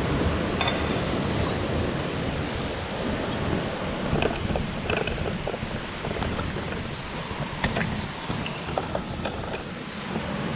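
Fast-flowing stream water rushing steadily over rocks, with a scatter of small clicks and knocks from about four seconds in.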